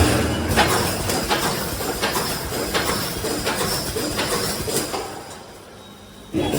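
Automatic wire mesh welding machine running through its cycle. A heavy stroke with a low hum is followed by a run of sharp metallic clicks, about one every 0.7 s, that fade, and the next heavy stroke comes near the end.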